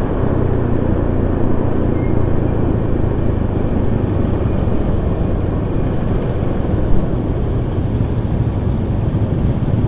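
Steady running noise of a vehicle in city traffic: a low engine hum under an even rush of road noise, with no clear change.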